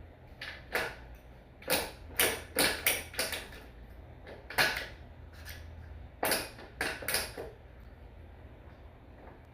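A series of about a dozen sharp knocks or taps, irregularly spaced and clustered over about seven seconds, over a low steady hum.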